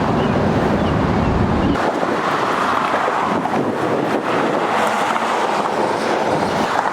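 Steady noise of road traffic passing on a busy bridge, with wind rumbling on the microphone until it drops away about two seconds in.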